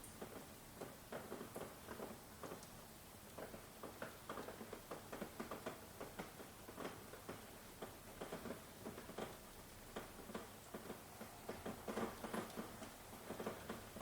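Rain falling, heard as many irregular close drops pattering and tapping over a faint steady hiss.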